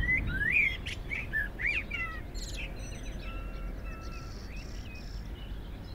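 Songbirds chirping and calling. The quick twittering notes come thickest in the first couple of seconds, then thin out to a few short whistled notes, over a low steady background rumble.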